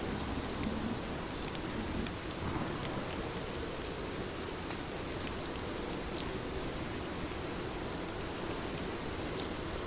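Heavy rain falling steadily: a dense, even hiss of downpour with a low rumble underneath and scattered drop ticks.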